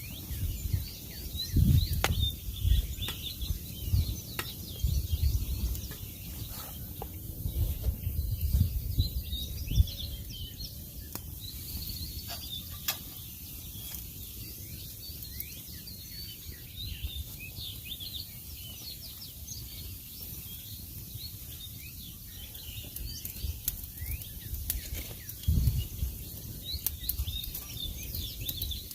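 Songbirds chirping and singing continuously, many short calls overlapping. Low rumbles come and go in the first ten seconds and again near the end, along with a few sharp clicks.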